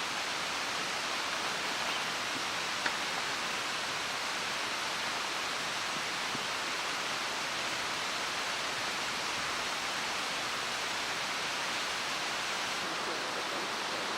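Mountain stream water rushing steadily, an even hiss, with one faint tick about three seconds in.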